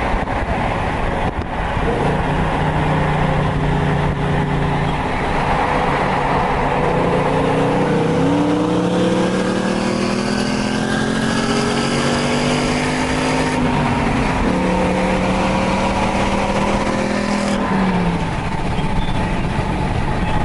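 Car engine under acceleration, its pitch climbing slowly over several seconds and dropping at a gear change about 14 seconds in, then holding and falling away near the end as it eases off, over steady road noise.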